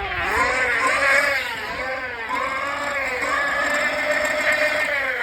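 Electric bike motor whining, its pitch rising and falling smoothly over and over as the throttle and speed change.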